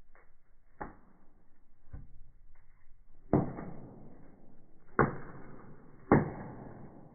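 Firewood burning in a fireplace, crackling, with a few faint snaps early on and three loud sharp pops in the second half, each trailing off briefly.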